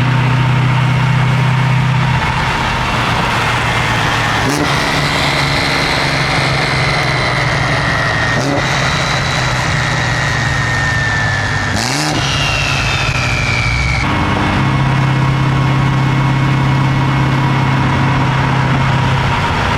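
Performance car engines idling and revving across several short cuts, with a faint high whine slowly falling in pitch in the middle.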